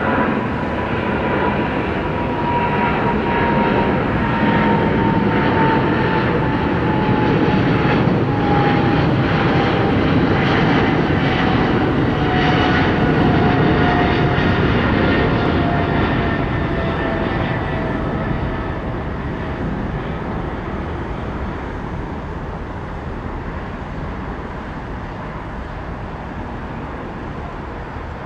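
Jet airliner climbing out after takeoff: a loud engine rumble with a whine that slowly falls in pitch as it passes, then fades away.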